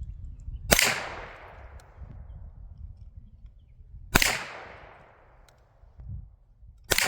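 Three single gunshots from a firearm in target practice, a few seconds apart, each a sharp crack followed by a long fading echo.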